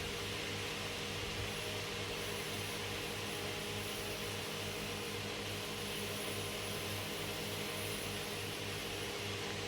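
A machine running steadily: a hum with hiss and a low, pulsing drone.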